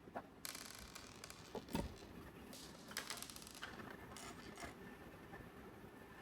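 Hands handling gachapon capsules and their packaging: rustling, small clicks and knocks, with one louder knock about two seconds in.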